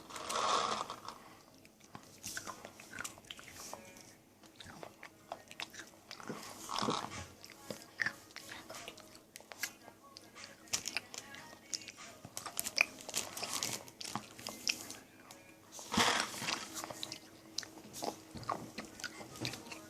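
A child chewing and crunching food close to the microphone, with crisp bites scattered throughout and a few louder clusters of crunching.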